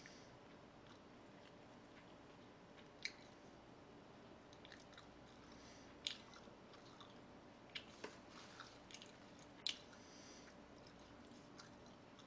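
Faint chewing close to the microphone: a handful of short, wet mouth clicks spaced irregularly over a low room hum.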